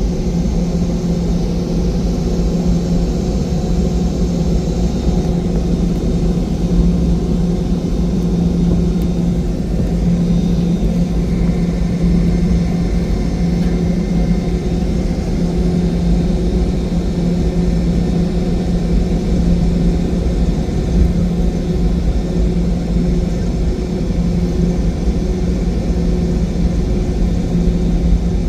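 Steady inside-the-cabin drone of a Boeing 717-200 airliner: its rear-mounted Rolls-Royce BR715 jet engines running with a deep rumble and an even hum that holds constant throughout.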